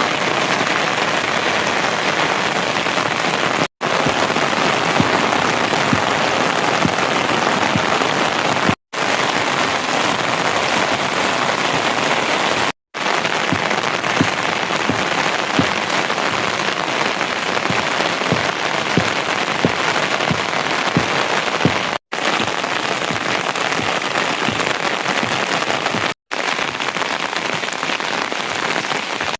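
Steady heavy rain, with individual drops landing distinctly among the hiss. It cuts out briefly five times, at the joins between shots.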